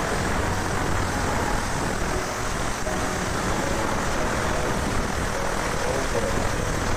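Steam cleaning machine running steadily, a constant hiss over a low hum.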